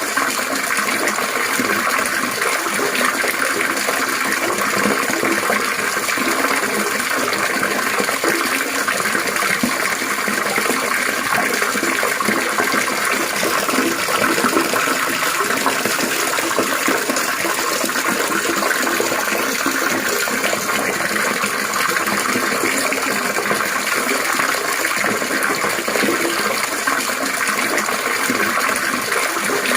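Water trickling and splashing in a continuous, steady stream, with no pauses or changes.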